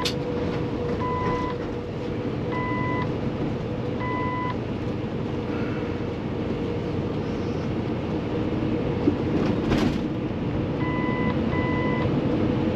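Inside the cab of a 2016 Kenworth T680, its Paccar MX13 diesel runs steadily under way with a constant drone and road noise. A short electronic beep repeats about every second and a half for the first few seconds, stops, and comes back near the end.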